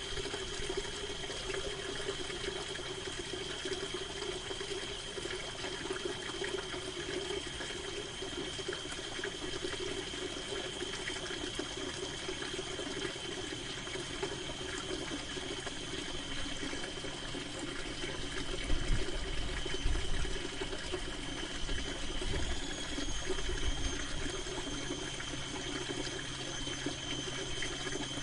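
Steady rain falling on a canvas tent. About two-thirds of the way through, a low rumble of distant thunder rolls for several seconds and fades.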